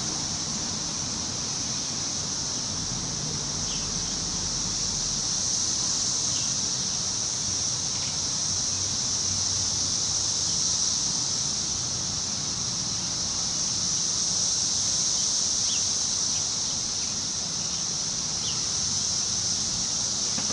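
Wind moving through trees with slow gentle swells, under a steady high-pitched insect drone, with a few faint short bird chirps scattered through.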